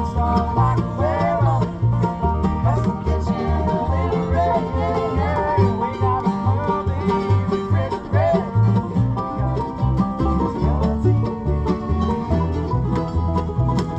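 Acoustic bluegrass band playing at full tempo: banjo and guitar picking over a steady, even bass pulse, with a sliding melody line above.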